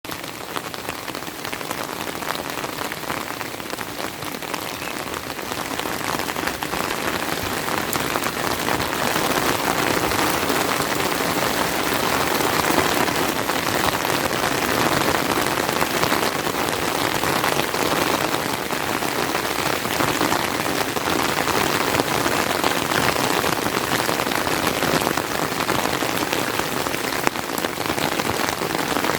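Steady rain falling, a dense hiss of many drops pattering on surfaces, swelling in loudness over the first several seconds and then holding even.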